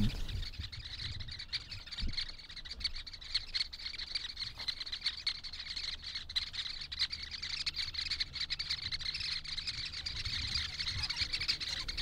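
Sociable weavers chattering at their communal nest: many quick, short chirps and clicks over a steady high hiss.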